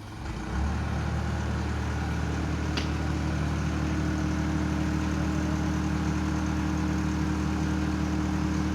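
Truck engine running steadily, coming up louder about half a second in and then holding an even, low hum.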